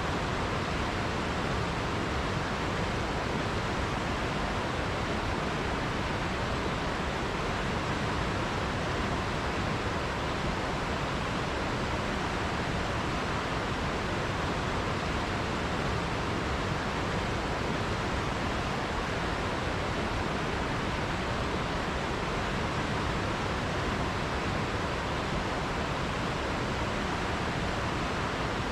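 River water flowing: a steady, unbroken rush of running water with no other sound standing out.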